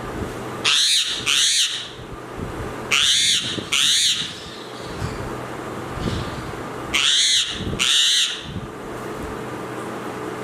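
Parrot giving loud screeching calls in pairs, three pairs a few seconds apart, each call short and arched in pitch, over a steady low hum.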